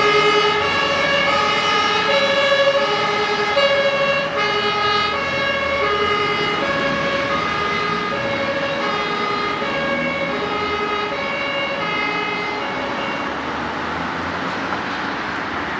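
German fire-service two-tone siren (Martinshorn) sounding its alternating high-low pattern, fading away as the vehicles move off; road and traffic noise is left near the end.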